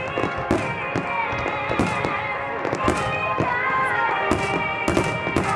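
Aerial firework shells bursting in a rapid string of sharp bangs, about a dozen across the few seconds, over music with long held notes.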